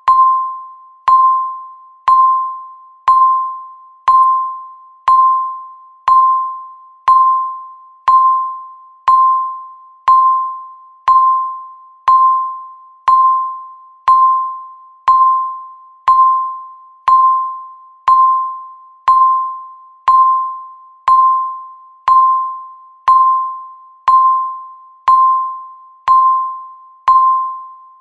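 Countdown timer's electronic beep, sounding once a second: a single steady mid-pitched tone that starts with a click and fades quickly, repeating evenly.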